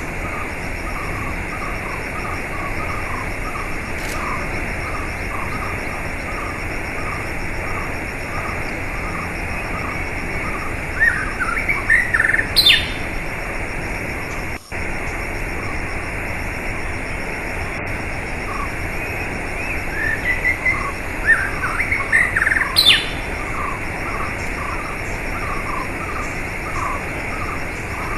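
Birds chirping and calling over a steady rush of running water. A short chirp repeats about twice a second throughout, and louder bursts of sweeping bird calls come twice, a little before the middle and again about three-quarters of the way in. The sound cuts out for an instant about halfway.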